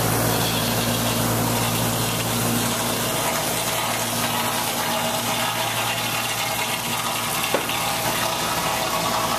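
A motor vehicle engine idling steadily with a constant low hum, and a single brief click about seven and a half seconds in.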